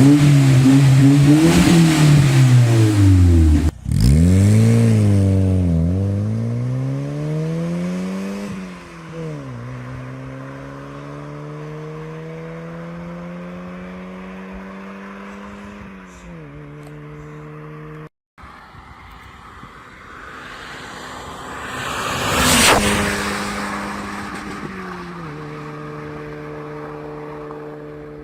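Honda Civic engine breathing through a motorcycle muffler: revved hard up and down a few times, then pulling away with its pitch rising through the gears, dropping at upshifts about 8 and 16 seconds in. After a short break, a loud rushing surge about 22 seconds in, then a steady drone.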